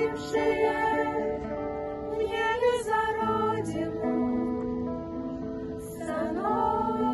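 A vocal ensemble sings a ballad in long held notes, with one sliding note about six seconds in.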